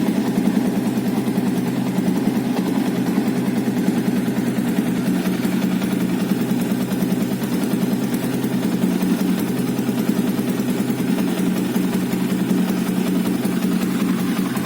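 Yamaha Vixion New's single-cylinder four-stroke engine idling steadily through a fitted Suzuki Satria FU exhaust muffler, with an even, unchanging beat.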